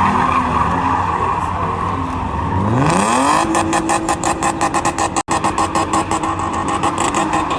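Tyres squealing under a running car engine. About three seconds in, the engine revs sharply up and is then held at high revs with a rapid stuttering pulse, typical of a drifting or burnout car.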